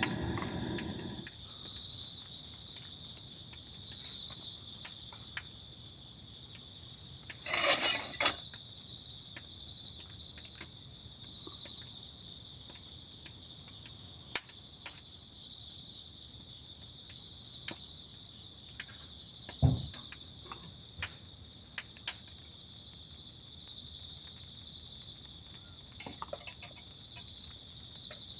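Insects chirping steadily in a continuous high pulsing trill. Scattered light clicks and knocks run through it, with a short rattle about eight seconds in and a single low thump about two-thirds of the way through.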